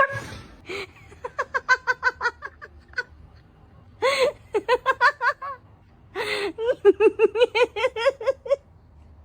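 A person laughing hard in three fits of quick, repeated ha-ha bursts, each fit started by a sharp gasping breath in.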